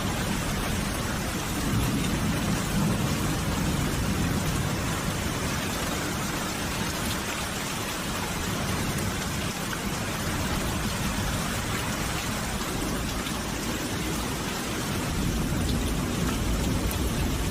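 Steady rain falling, with a low rumble of distant thunder swelling about two seconds in and again near the end.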